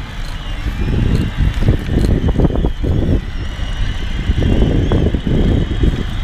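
Wind buffeting a GoPro's microphone while riding: a loud low rumble that swells and gusts unevenly.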